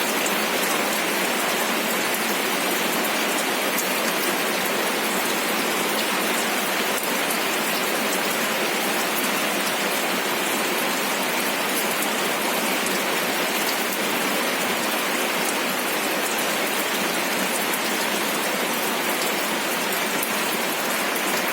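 Steady rain falling, with many fine drop ticks over an even hiss. The level stays constant, with no thunder.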